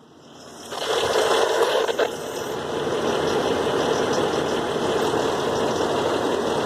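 Truck engine running with a rattle whose cause the owner does not know. The sound grows louder over the first second, then runs steadily.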